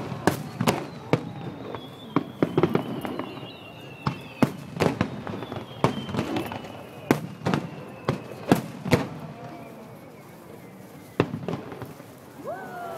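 Aerial firework shells bursting: a string of sharp bangs at uneven spacing, some in quick clusters, with a rising whistle near the end.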